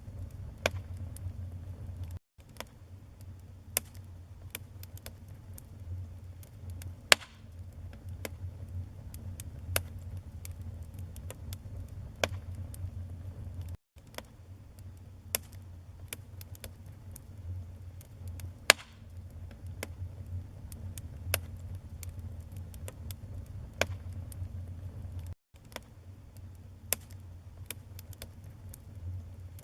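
Wood fire burning in a fireplace: a steady low rumble of flame with irregular crackles and sharp pops from the burning logs, two louder pops about 7 and 19 seconds in. The sound drops out for an instant three times.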